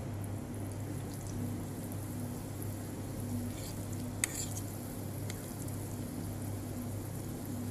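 Cabbage-and-tuna omelette batter sizzling as it fries in hot oil in a pan, over a steady low hum. A single sharp click about four seconds in.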